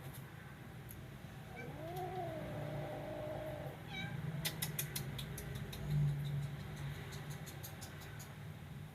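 Kitten giving one drawn-out meow about two seconds in, rising and then holding, followed by a run of faint clicks.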